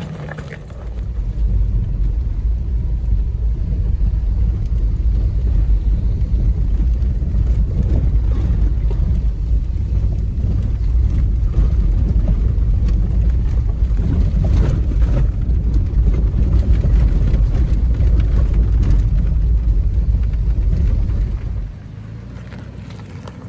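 A 2018 Toyota 4Runner TRD Off-Road driving on a rough off-road trail: a steady low rumble that starts about a second in, with a few brief knocks partway through, and drops off sharply near the end.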